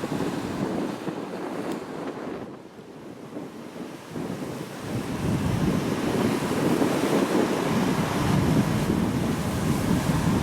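Strong typhoon wind buffeting the microphone in gusts. It eases about two and a half seconds in, then builds up louder again.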